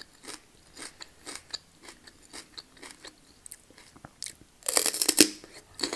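Close-miked chewing of crunchy food, with a louder, denser bout of crunching about five seconds in.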